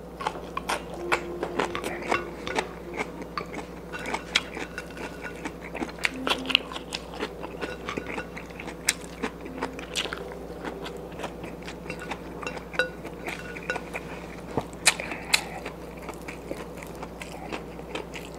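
A man chewing and biting a meal of fried fish and vegetables eaten by hand, with wet mouth sounds and many small sharp clicks throughout. A steady low hum runs underneath.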